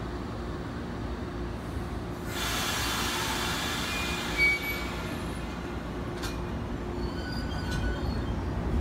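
JR 115 series electric train pulling out of a platform: a hiss swells about two seconds in, there is a brief louder jolt about halfway, and the low rumble of wheels and motors builds near the end as it gathers speed, with faint high wheel squeals.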